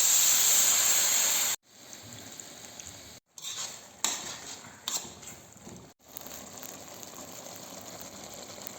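Mushroom broth hitting a hot pan of browned chicken, mushrooms and flour roux, hissing loudly for about a second and a half before cutting off suddenly. Then a quieter sizzle as the sauce is stirred, with a few clicks of a utensil against the pan.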